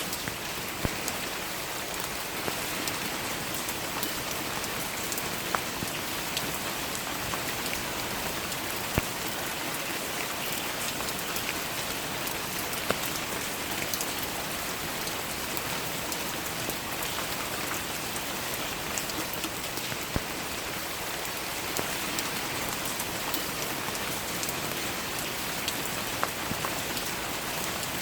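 Steady rainfall, with sharp taps of single drops scattered through it.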